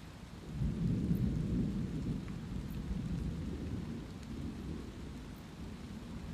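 Steady light rain with rolling thunder; a low rumble swells about half a second in and slowly fades.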